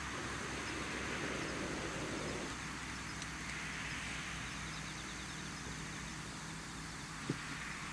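Steady outdoor background noise, a low hum under a soft hiss that swells and fades, with one sharp click near the end.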